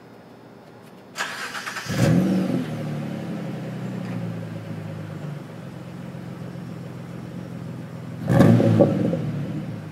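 1998 Mitsubishi 3000GT's SOHC V6 exhaust, through a test pipe and a 2.5-inch cat-back: the starter cranks for about a second, the engine catches with a flare of revs and settles to a steady idle, then a quick rev blip near the end falls back to idle.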